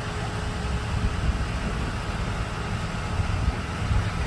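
Steady outdoor background noise: a fluttering low rumble with a hiss above it and no distinct event.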